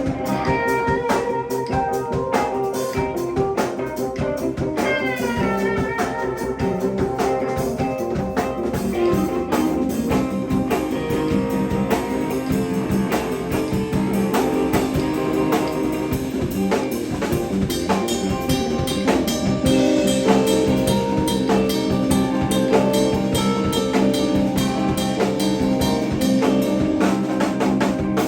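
Live band playing an instrumental jam: guitar over a drum kit keeping a steady beat.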